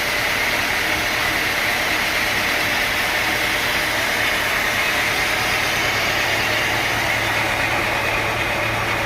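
Sawmill machinery running steadily: a continuous engine-like drone with a constant mid-high whine and a low hum.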